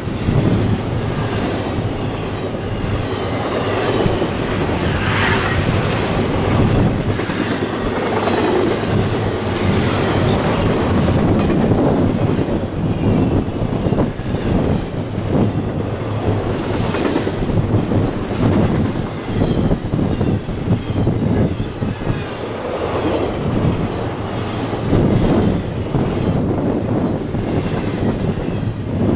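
Freight train rolling past, its cars' wheels clattering steadily over the rail joints, with some wheel squeal.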